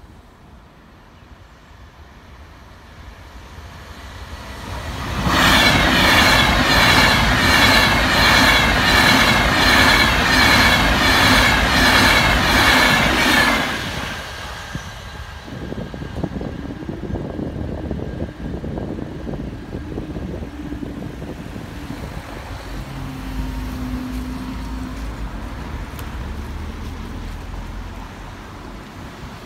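An Avanti West Coast Class 390 Pendolino electric train approaches as a rising rumble and then passes at speed for about eight seconds: a loud rushing with a steady, regular clatter of wheels over the rail. After it has gone, road cars idle and pull away.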